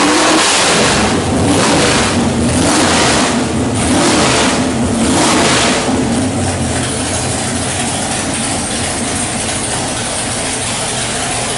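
489 cubic inch big-block Chevrolet stroker V8 with a hydraulic roller cam running on the dyno. It is revved in about five quick swells over the first six seconds, then settles to a steadier run.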